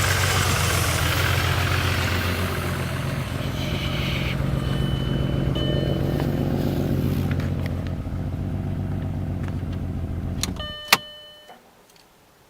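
Volkswagen Jetta Mk4 VR6 engine idling with a misfire on one cylinder, then shut off about eleven seconds in, followed by a sharp click and a brief tone.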